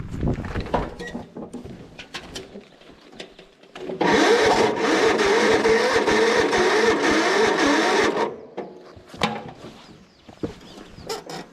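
Electric starter cranking an 18-horsepower garden tractor engine for about four seconds, its pitch wavering, then stopping suddenly without the engine catching; the battery is running low, which makes it hard to start. Scattered clicks and knocks before and after.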